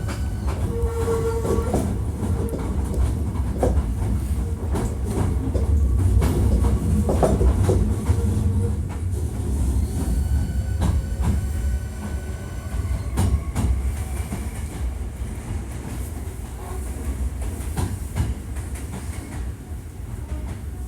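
Hankyu 1300 series electric train running between stations, heard from inside the car, a unit singled out for its unusual running noise. A heavy rumble of wheels on rail with repeated clicks over rail joints and several steady whining tones. It grows louder toward the middle and eases off in the second half.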